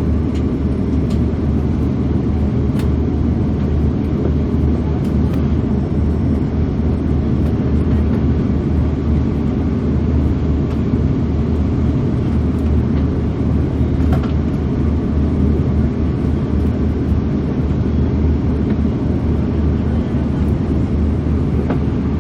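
Steady low cabin rumble inside an Airbus A340-600 airliner: engine and airflow noise heard from a passenger seat, even throughout, with a few faint ticks.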